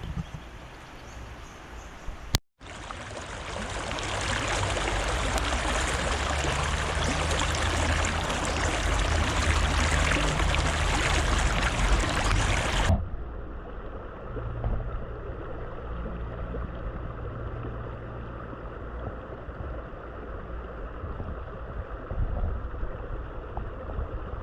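Fast-flowing river water rushing. It drops out briefly about two and a half seconds in, runs loud, then cuts suddenly about halfway through to a quieter, duller rush.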